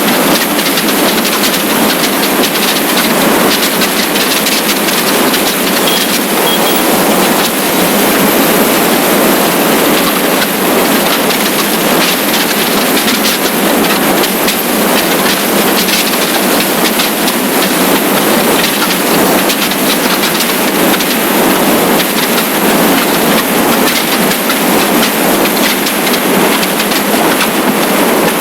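Steady rush of wind and road noise from a motorcycle riding at speed.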